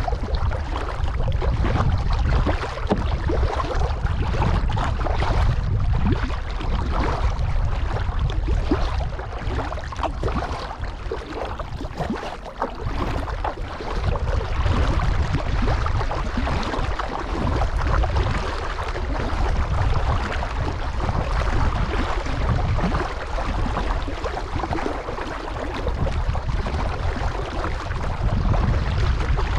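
Kayak paddling on a pond: water splashing and swishing against the paddle and hull, under a steady wind rumble on the action camera's microphone.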